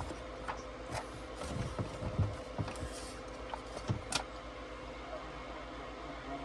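Steady hiss and hum of static from a CB radio receiver, the noise the operator is puzzling over, with a few short clicks and knocks of handling in the first few seconds.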